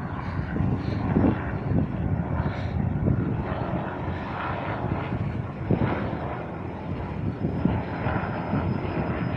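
Helicopter flying overhead, its rotor and engine making a steady, pulsing drone.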